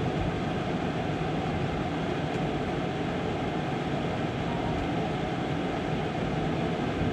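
Steady running noise of the Amtrak Auto Train at speed, heard from inside a Superliner sleeping car: wheels on the rails and the car body rumbling.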